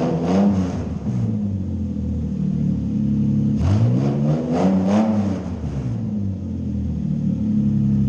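Car engine revved through its exhaust in two bursts, rising and falling back to a steady idle between and after.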